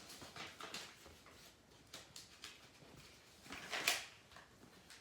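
A sheet of paper being handled and folded into a paper airplane's wings, with soft rustles and a louder crinkle of paper about four seconds in.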